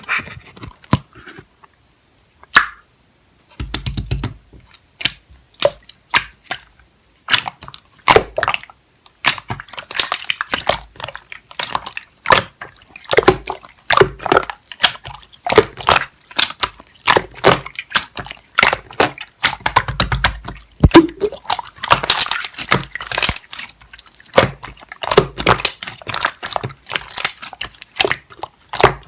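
Green clear slime being squished, pressed and stretched by hand, giving off wet clicks and pops. A few scattered clicks at first, then a dense, continuous run of them from a few seconds in.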